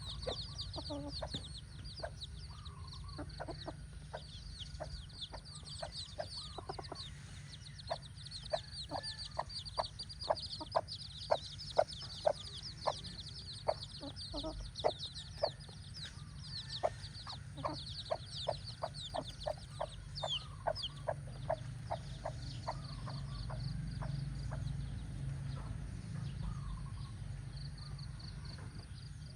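Mother hen clucking in short, repeated notes while her chicks peep constantly in a high chorus. The clucking comes thickest through the middle and thins out near the end, over a steady low rumble.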